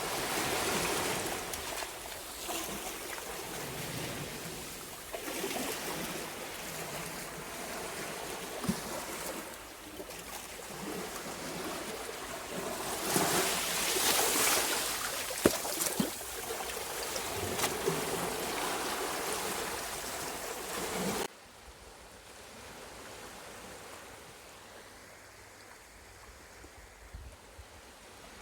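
Sea waves washing against the shore, the wash swelling and falling every few seconds with a few sharp clicks. About 21 seconds in it cuts abruptly to a much fainter, steadier wash.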